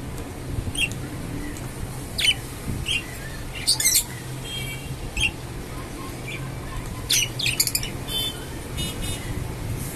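Budgerigars calling: short, sharp chirps and squawks scattered irregularly, with a few brief warbling chatters, over a steady low hum.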